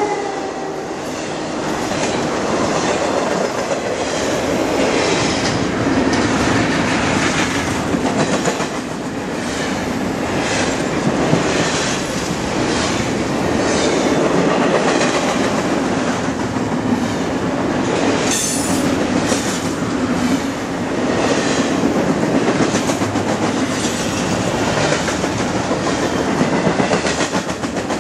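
Double-stack intermodal freight cars rolling steadily past close by, their steel wheels clicking rhythmically over rail joints. About 18 seconds in there is a brief sharp metallic noise.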